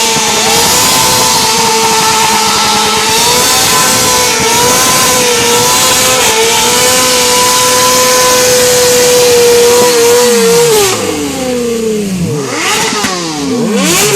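Inline-four sport motorcycle engines being revved hard. One is held near the top of its rev range at a steady high pitch for about ten seconds. It then drops away into repeated throttle blips, with revs rising and falling and a second engine's revs overlapping.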